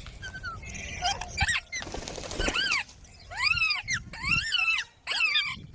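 Parrot calling: a string of short squawks, each rising and then falling in pitch, coming thick and fast in the second half, with a harsh noisy squawk about two seconds in.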